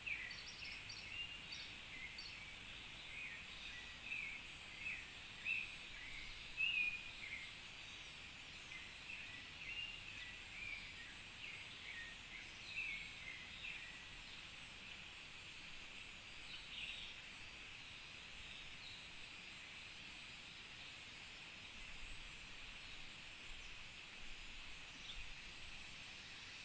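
Outdoor tropical ambience: many short bird chirps and calls, thickest in the first half and then scattered, over a steady high insect hum.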